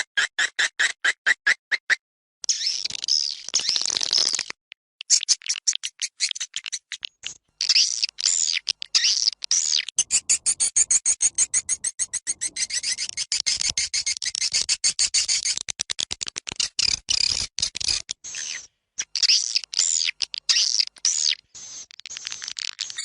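Swiftlet calls played as an external lure sound for a swiftlet house: rapid trains of high chirps and clicking twitters, many per second, coming in runs with brief breaks.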